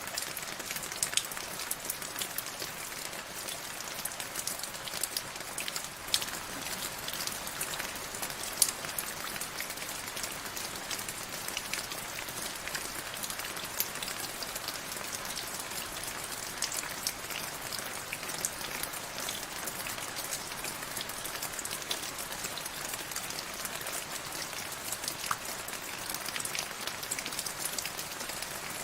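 Steady rainfall, a continuous hiss with many sharp drop ticks scattered through it.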